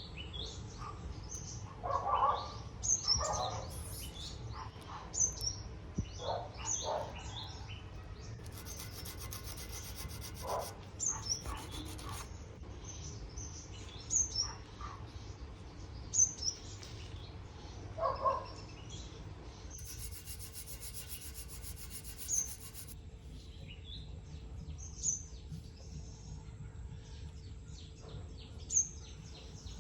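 Small birds chirping over and over in the background, with a few short rubbing or scraping sounds, the loudest near the start and about two-thirds of the way through.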